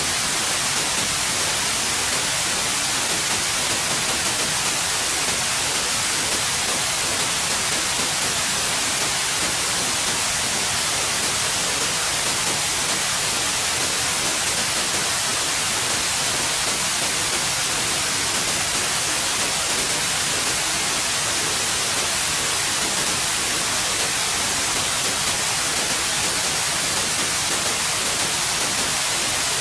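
Steady white noise: an even, unchanging hiss with no breaks.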